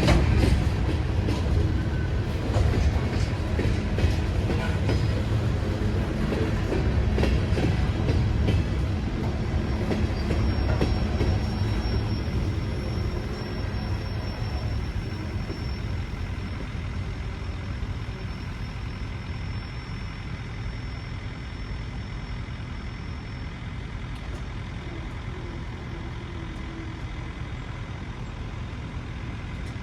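Train rolling past: a low rumble with wheels clicking over the rails, loud at first, then fading steadily over the second half, with a thin high squeal in the middle.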